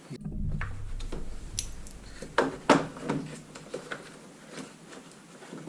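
A low rumble for about two seconds, then a series of sharp clicks and knocks as parts of a car's stripped front end are handled.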